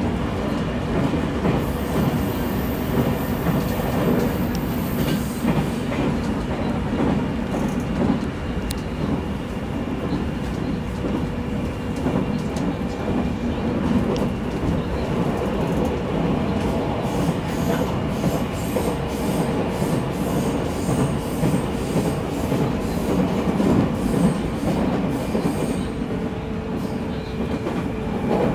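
Electric train running along the track, heard from inside the front car: a steady rumble of wheels on rail with scattered clicks and a steady hum. A thin, very high whine sounds for a few seconds about two seconds in.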